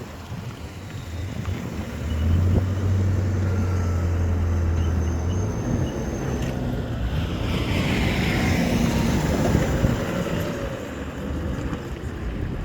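A motor vehicle going by on the road, a low engine hum loud from about two seconds in to about five seconds, followed by a swell of tyre and road noise, with wind on the microphone.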